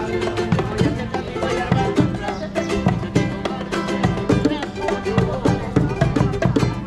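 A group of musicians playing live, upbeat music on plucked strings with a steady beat.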